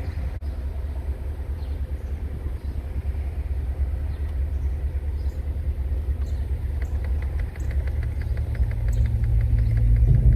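Low, steady rumble of the Porsche Cayenne Turbo's twin-turbo V8 idling. In the last few seconds a fast, even ticking comes in.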